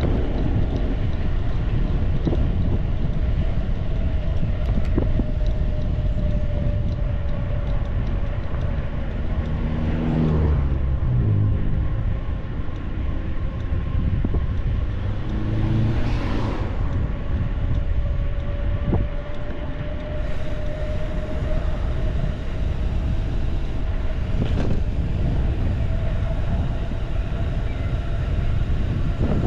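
Wind rushing over the microphone of a mountain bike on the move, under a steady hum that sags in pitch and recovers. Two motor vehicles pass, about ten and sixteen seconds in.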